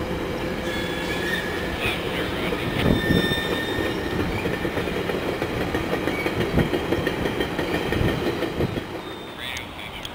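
Train rolling past on the tracks: steady wheel-on-rail rumble with thin high wheel squeals and a few heavy thumps, easing off near the end.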